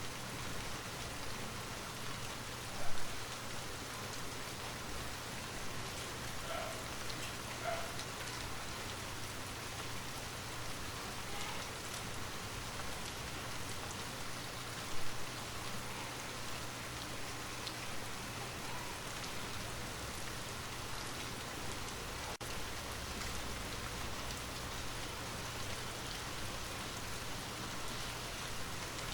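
Steady rain falling, an even patter of drops, with two brief louder taps, one about three seconds in and another about fifteen seconds in.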